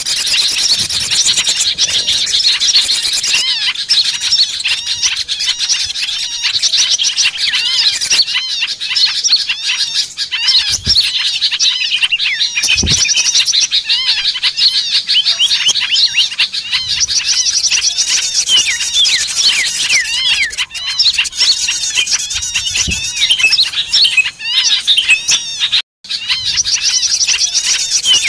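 A dense chorus of many small songbirds chirping and twittering at once, calls overlapping without pause, the kind of noisy flock recording played as a lure to draw wild small birds down. A split-second gap breaks it near the end.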